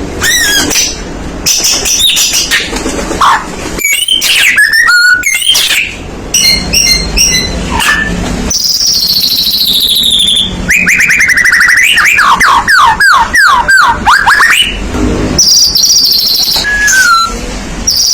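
White-rumped shama (murai batu) singing loudly. The song is a varied run of whistles and trills, with a long series of rapid, falling notes in the middle.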